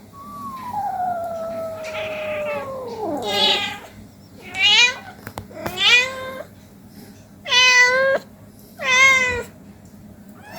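A cat meowing: one long drawn-out call that slides down in pitch, then five shorter, sharper meows at uneven spacing.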